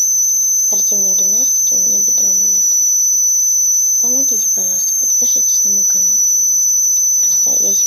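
A loud, steady high-pitched tone that holds one pitch without a break, with a quiet voice talking underneath it now and then.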